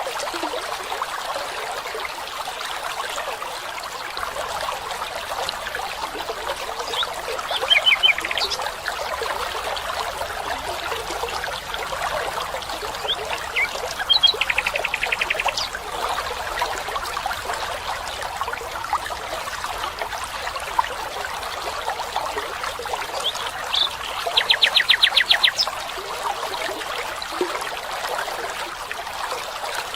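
A stream trickling steadily, with birds calling over it: a few short calls about 8 seconds in, then rapid trills about 14 seconds in and again, louder, near 25 seconds.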